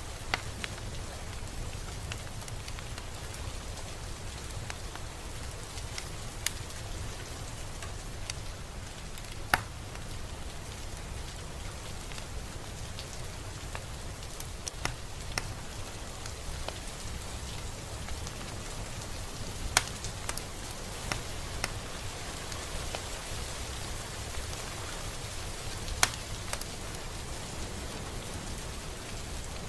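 Steady rain falling, with individual drops ticking sharply close by now and then; a few louder drips stand out, about a third of the way in, two-thirds of the way in and near the end.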